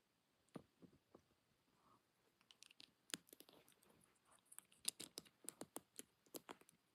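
Faint small plastic clicks and taps from Lego pieces being handled and pressed together, coming in quick clusters.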